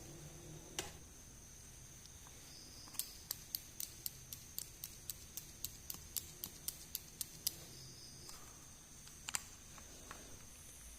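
Small hard clicks from miniature plastic toys being handled: one click, then an even run of quick clicks about four a second for several seconds, and another single click later.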